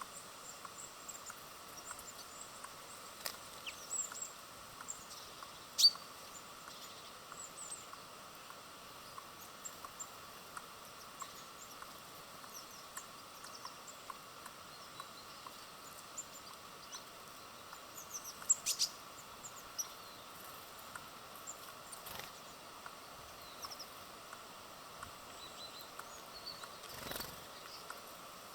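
Small birds at a feeder: scattered short high chirps and a few sharp clicks and taps, the two loudest about six seconds in and about eighteen seconds in, over a steady faint outdoor background hiss.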